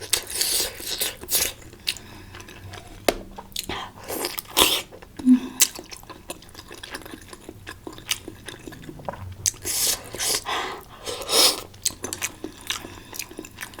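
Close-miked chewing and biting of spicy malatang hotpot food, with irregular wet smacks and crunches; the louder bursts come about half a second in, around four and a half seconds in, and between ten and eleven and a half seconds in.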